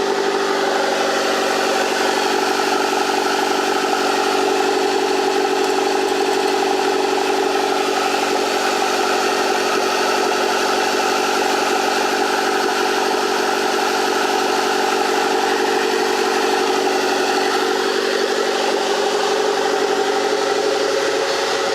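Freshly swapped turbocharged Honda D16Y8 1.6-litre SOHC VTEC four-cylinder idling steadily, with a small change in pitch near the end.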